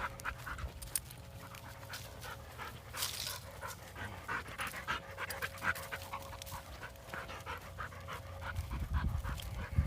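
A dog panting heavily in quick, even breaths, typical of a dog tired out on a walk.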